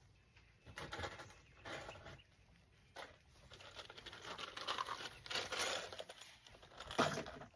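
Irregular rustling and scraping of hands handling materials, with a sharp click about seven seconds in.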